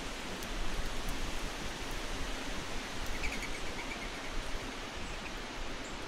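A bird calls briefly, a short run of quick high notes about three seconds in, over a steady rushing background noise.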